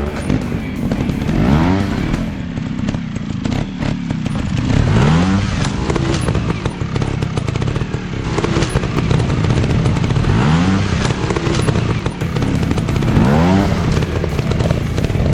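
Motocross dirt bike engines revving hard, the pitch swinging up and back down several times at uneven intervals, over a constant rattly engine din.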